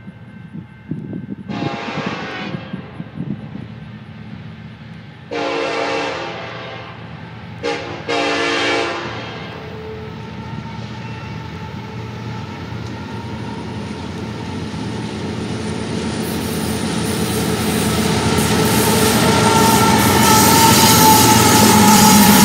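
Diesel freight locomotive's air horn sounding long, long, short, long, the grade-crossing signal. Then the train comes closer, its engine and wheels on the rails growing steadily louder, with a high rail noise joining in for the last few seconds.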